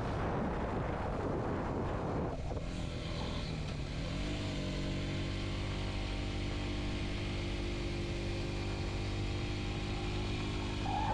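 Kawasaki Z125's single-cylinder 125 cc engine running under way on the motorcycle. A noisy rush covers it at first and cuts off suddenly about two seconds in. The engine note then rises briefly about four seconds in and holds steady.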